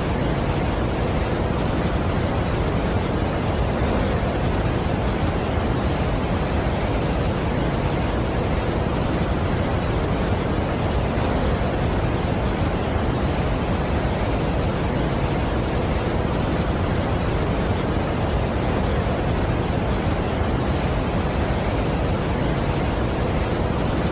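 Steady roar of a large waterfall: an even, unbroken rushing of falling water, heavy in the low end, with no change.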